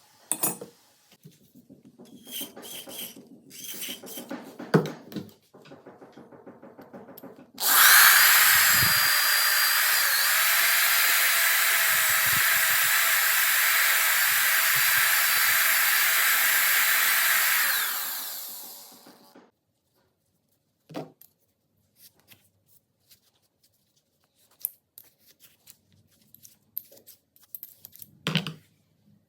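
Several seconds of small clicks and knocks, then an electric power tool runs at a steady high speed for about ten seconds and winds down. A few scattered clicks follow.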